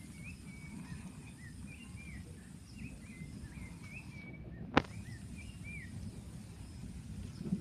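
Outdoor ambience: a steady low rumble of wind and background noise, with many short, faint chirping calls scattered throughout. A single sharp click comes about five seconds in.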